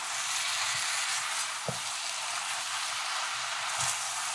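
Eggplant and potato strips frying in curry paste in a hot karahi: a steady sizzle as they are stirred and turned. A couple of light knocks come from the stirring, the clearest about one and a half seconds in. This is the bunjay stage of a curry, in which the vegetables fry in the spice paste before any water goes in.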